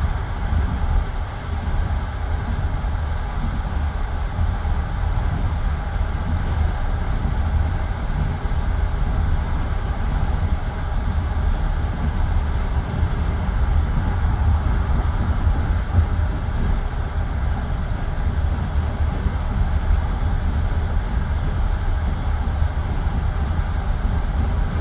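Passenger train carriage running on the rails, heard from inside the car: a steady low rumble of the wheels and running gear with no pauses or changes.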